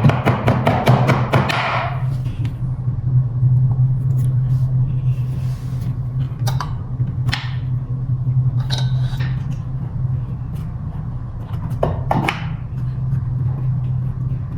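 Rapid, evenly spaced metallic clicking, about four to five a second, stops about two seconds in. Then come scattered clicks and knocks as scooter folding-mechanism parts and tools are handled, over a steady low hum.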